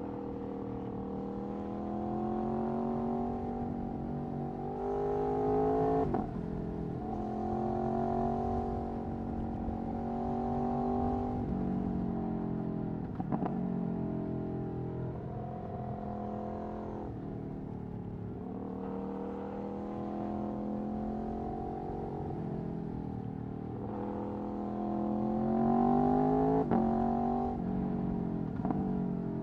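Aprilia Tuono V4 1100's V4 engine through an Akrapovic Racing exhaust under way, its note rising as the bike accelerates and dropping sharply at each of several gear changes.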